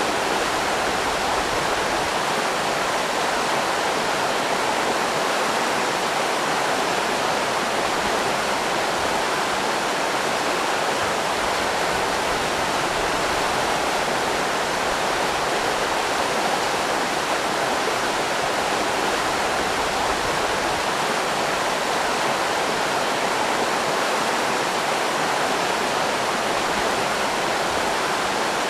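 River rapids rushing steadily, an even wash of running water with no change in level.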